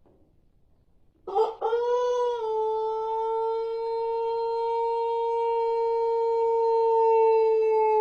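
Pelung rooster crowing: one long crow that starts about a second in, wavers briefly, then holds one steady pitch for about six seconds and drops in pitch as it ends.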